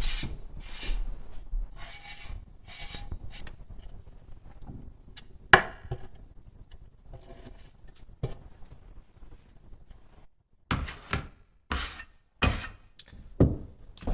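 Hand work on building materials: scraping and rubbing at first, a sharp click about midway, then a run of separate knocks near the end.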